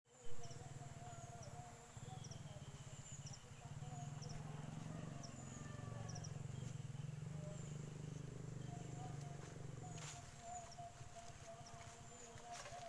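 Small birds chirping in short, repeated high calls over a low steady rumble, after a single thump at the very start. About ten seconds in, crackling footsteps through dry cut plant litter take over.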